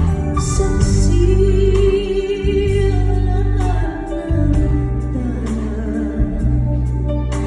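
A singer performing live with a band: a held vocal line with vibrato over steady, heavy bass accompaniment, heard through a phone's microphone.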